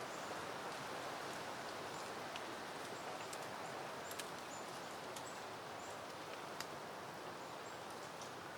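Steady wind rustling through leafy plants, with faint, short high chirps here and there and a few light ticks, the sharpest just after 4 seconds and at about 6.6 seconds in.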